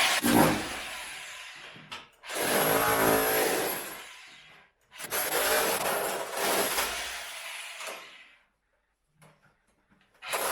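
Makita rotary hammer running in three bursts of two to three seconds each, with short breaks between, the last stopping about eight seconds in.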